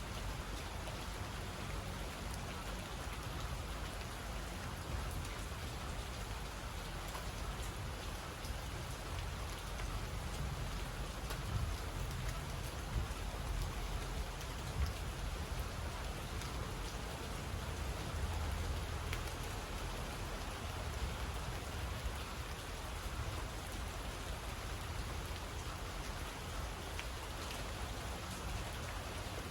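Steady rain falling, with scattered louder drops ticking out of the even hiss and a low rumble underneath.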